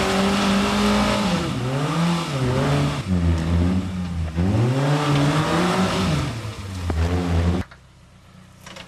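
Suzuki Samurai with a Sidekick four-cylinder engine revving hard, its pitch rising and falling several times as the throttle is worked. About a second before the end it cuts off abruptly to a much quieter background.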